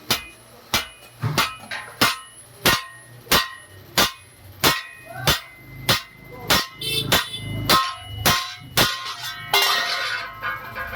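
A hammer striking metal in a steady rhythm, about one and a half blows a second, each blow ringing. Near the end the blows give way to about a second of rougher scraping noise.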